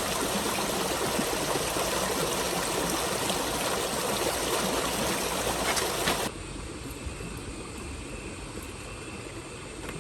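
Steady rush of flowing water that cuts off abruptly about six seconds in, giving way to a quieter low rumble.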